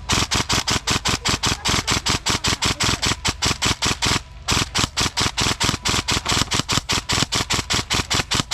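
Airsoft rifle firing a rapid, steady string of shots, about five or six a second, with a brief pause about four seconds in.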